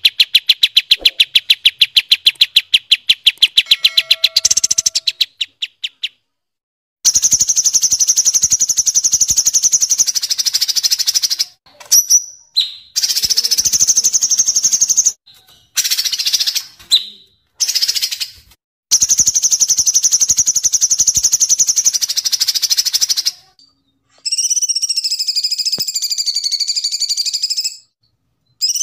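Recorded birdsong of kapas tembak and cucak cungkok. It opens with a fast trill of rapidly repeated notes for about five seconds. Then come several long, high rattling trills, each starting and stopping abruptly. Near the end a wavering warbled phrase follows.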